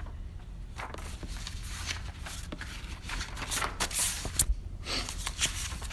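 Bible pages being turned, with papery rustles and light flicks that grow busier and louder about three seconds in.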